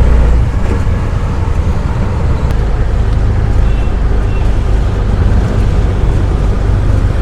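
Steady road-vehicle noise: a loud, deep rumble with a haze of traffic sound above it, as heard while riding through city traffic.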